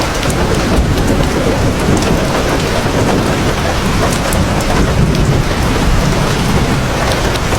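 Heavy rain falling steadily, with scattered sharp drop hits and a low rumble of thunder underneath.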